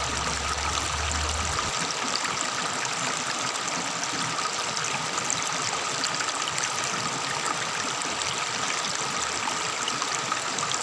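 Tropical forest river babbling steadily as water runs along its bed.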